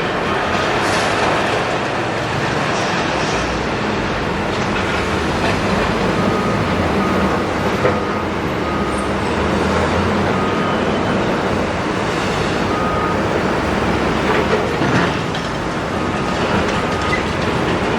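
A large Doosan excavator working on demolition: its diesel engine runs under a continuous rattling and clanking of metal and broken concrete. Faint short beeps recur at intervals through the middle and later part.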